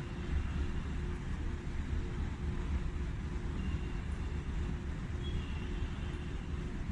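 Steady low rumble of railway station ambience with distant traffic, a faint hum and a few faint short high tones.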